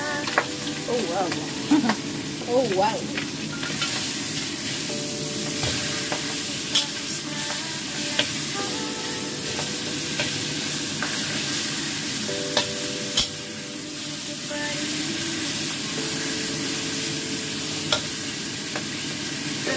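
Fish frying in hot oil in a steel wok, sizzling steadily, with a metal spatula scraping and knocking against the wok in occasional sharp clicks as the fish is turned.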